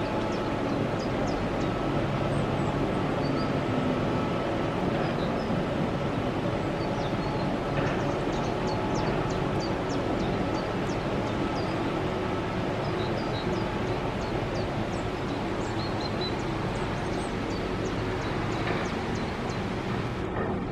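Steady rushing outdoor noise with a faint hum from a distant mountain-railway train running through the valley, and scattered short high ticks and chirps throughout.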